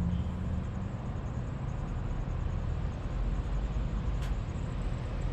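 Steady low rumble of an idling diesel truck engine, with one sharp click about four seconds in.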